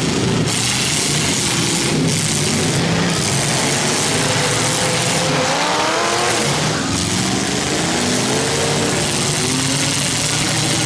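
Demolition derby cars' engines running loud and revving hard, their pitch climbing and falling several times from about halfway through, over a constant din of engine noise.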